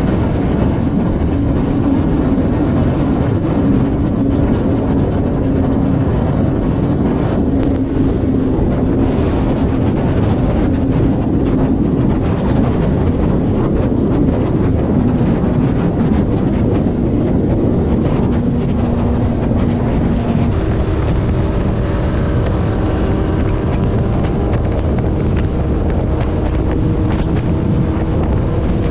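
Vehicle running at highway speed: a steady engine drone under heavy wind noise. The engine note jumps higher about two-thirds of the way through.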